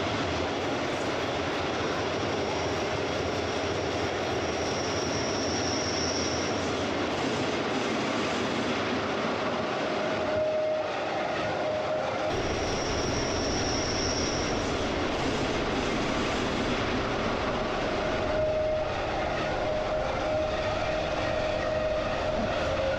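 Glacier Express metre-gauge train running steadily along the track, heard from on board as a continuous rumble of wheels on rail. A high wheel squeal rises out of it twice for about two seconds each, and a lower whine comes and goes in the second half.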